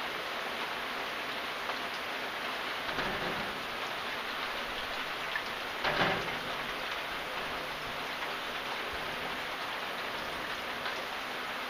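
Steady rain falling on a surface, a dense even hiss of drops. It swells briefly about three seconds in, and there is a short, sharper louder hit about six seconds in.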